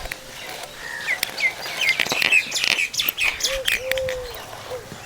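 Small birds chirping in quick, varied calls, busiest in the middle, with a lower cooing call about three and a half seconds in. A few sharp clicks sound between them.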